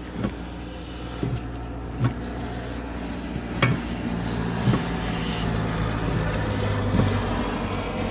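Screw-type brake caliper piston compressor being cranked to push the caliper piston back in, with sharp clicks every second or two as the tool is turned. Underneath is a steady low hum.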